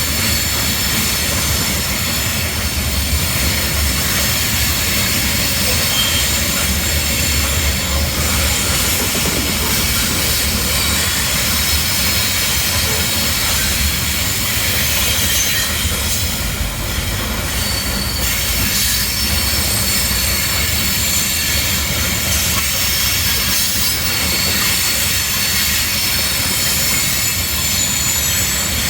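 Slow-moving train rolling past, its wheels squealing on the rails with several high, steady ringing tones over a low rumble.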